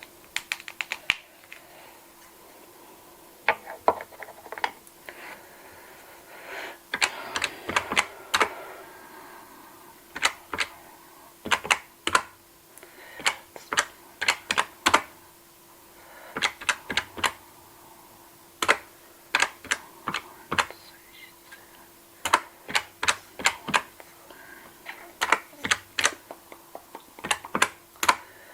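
Cash register keys being pressed: sharp clicks in quick runs of several keystrokes, with short pauses between the runs.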